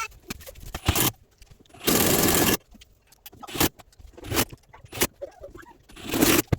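Metal parts and hand tools clinking and rattling as a washing machine is reassembled, with a short loud burst of noise about two seconds in and another near the end.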